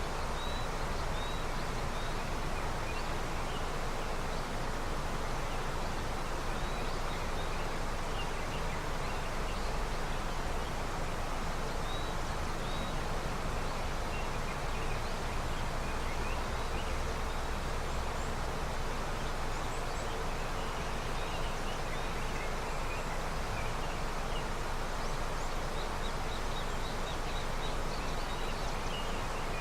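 Steady rushing of a river running with snowmelt, an even wash of flowing water, with faint high chirps scattered over it now and then.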